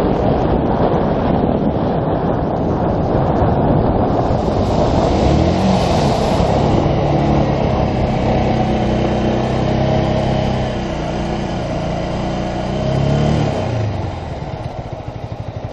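Yamaha YZF-R125's single-cylinder four-stroke engine running, its pitch rising and falling about five seconds in and again near the end, then dropping back toward a steady idle.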